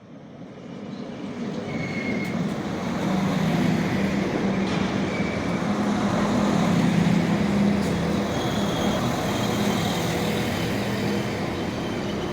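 Passenger train running into the platform, growing louder over the first few seconds, then a steady low hum with thin high squeals, one briefly about two seconds in and more from about eight seconds on.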